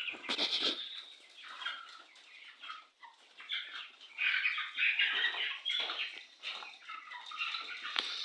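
Adult quail in a cage, with many short chirping calls and scratchy rustling on and off.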